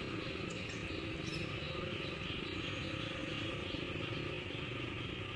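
Steady background noise: a continuous high-pitched hum over a low rumble, with no distinct events.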